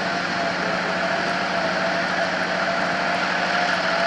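Steady machine drone with a faint, slightly wavering whine and a low hum underneath, unchanging throughout.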